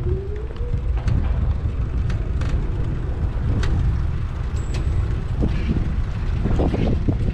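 Riding noise from a bicycle-mounted GoPro: a dense low rumble of wind and road, with scattered light clicks and rattles. A tone rises in pitch through the first second.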